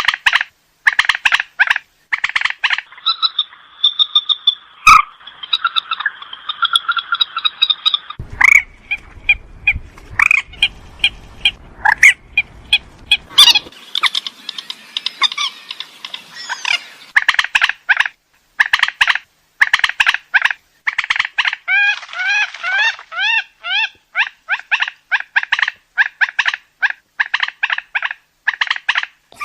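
Purple swamphen calling without pause: rapid runs of loud, harsh clucks and squawks, broken by held nasal notes and, in the second half, a quick series of rising squeals.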